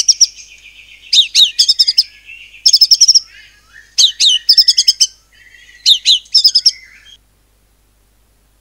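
White-rumped shama (murai batu) singing loud, rapid-fire phrases: sharp falling whistles, each followed by a quick run of repeated high notes, in about five bursts. The song stops about seven seconds in.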